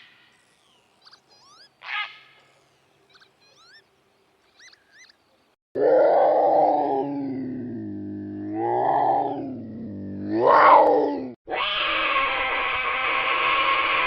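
Wild animal calls. Faint short bird chirps come first. About six seconds in, a loud, long, low animal call starts, wavering down and up in pitch twice. It stops suddenly and is replaced by a harsh, rasping call.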